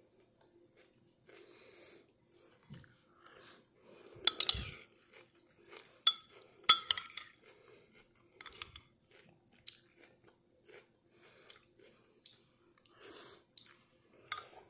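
A person chewing a mouthful of noodle soup close to the microphone, in irregular soft smacks and crunches, with three sharp clicks around the middle.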